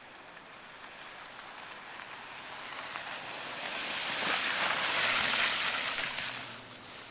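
A vehicle passing on a snowy street: a hiss of tyres swells over a few seconds, peaks in the middle, and fades away, with a faint low engine hum under it near the end.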